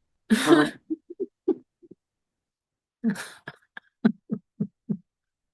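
A person laughing: breathy outbursts followed by short, evenly spaced 'ha' pulses, with a run of four near the end.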